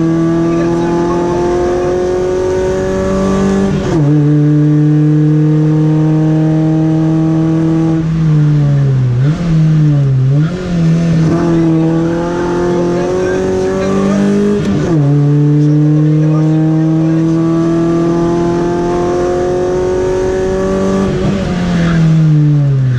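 Volkswagen Golf rally car engine under hard acceleration, its pitch climbing steadily through long pulls with upshifts about four seconds in and again past the middle. In between, the revs drop and flick up and down quickly, twice: braking and downshifting into corners.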